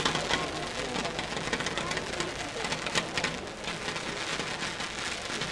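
Fireworks crackling: a dense, steady run of many small sharp pops, like rain on a surface.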